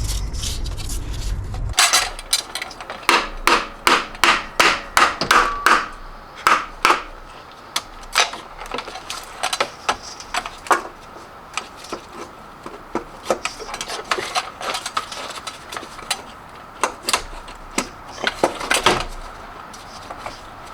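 Hand tools knocking and tapping on metal during work on a car's starter motor: a quick, irregular run of sharp knocks for several seconds, then scattered taps. A low hum cuts off about two seconds in.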